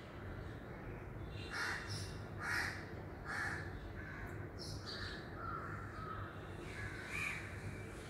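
Harsh bird calls: three short calls about a second apart, then a few softer ones near the end, over a steady low hum.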